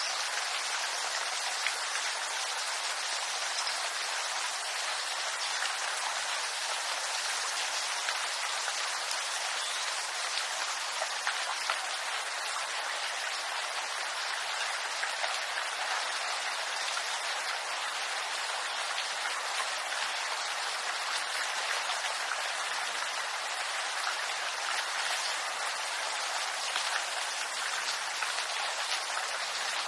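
Steady rain falling on a bamboo grove: an even hiss with scattered individual drop ticks.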